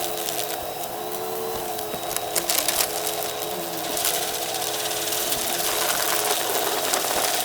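Vacuum cleaner running with its brushroll spinning: a steady motor hum that wavers slightly in pitch, with scattered crackles of dry debris being picked up.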